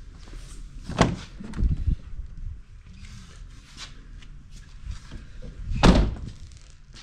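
Two loud thuds about five seconds apart, the second the loudest, with a few lighter knocks just after the first.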